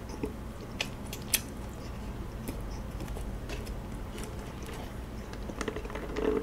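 Close-miked chewing of a mouthful of kaya toast: quiet wet mouth sounds with scattered soft clicks. Near the end comes a sip of iced drink through a straw.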